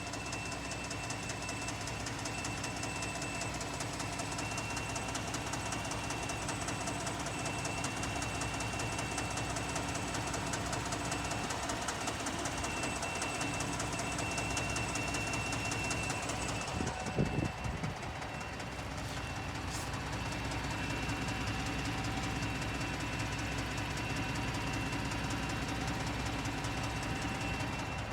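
2018 Ford F-150's 3.5 L twin-turbo EcoBoost V6 idling on a cold start, with a loud, fast clunking and clicking from the engine.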